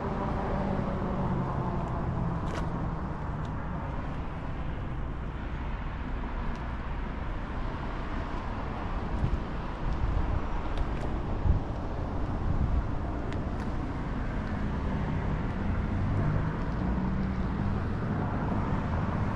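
Steady low rumble of outdoor background noise of the vehicle and traffic kind, with a few faint ticks.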